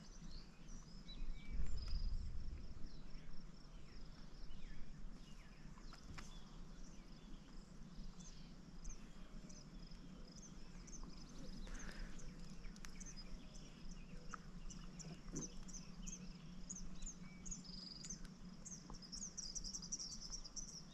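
Quiet outdoor evening ambience by the water: a steady high insect drone with short repeated high chirps that come quicker and thicker in the second half. A brief low rumble about two seconds in.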